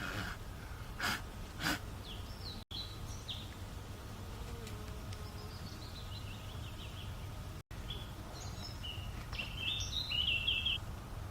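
Outdoor woodland background: a steady low rumble with birds chirping on and off, most busily near the end, and three short sharp knocks in the first two seconds.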